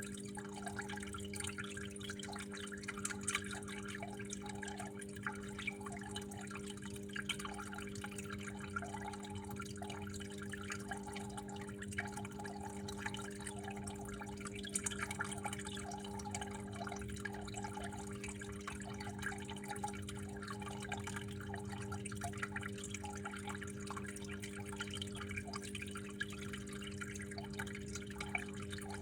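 Water flowing and dripping steadily, a continuous splashing patter of small drops, over a steady low hum.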